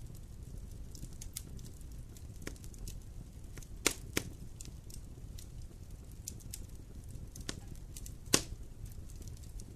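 Wood campfire burning with a steady low rumble, scattered crackles and three sharp pops, two close together about four seconds in and one near the end.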